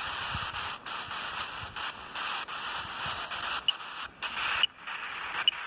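A towel rubbing over a phone, heard as hissy rustling and scraping on its microphone in irregular patches with brief dropouts.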